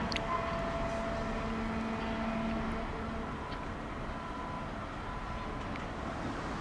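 A departed Railjet train receding: its electric hum fades out about halfway through, leaving a steady low rumble.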